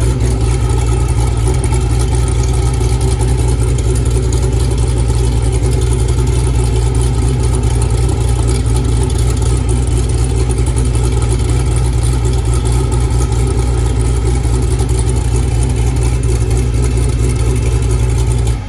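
Hennessey Venom F5's twin-turbo V8 idling steadily at the exhaust, a deep and even note with no revs, until it cuts off abruptly at the very end.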